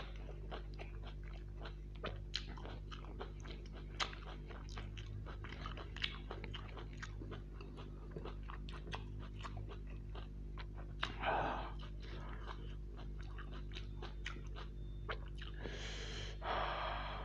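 Close-up chewing and biting of fried snacks (samosas and pakoras), with many short wet mouth clicks and smacks. A louder, longer crunchy bite comes about eleven seconds in and another near the end.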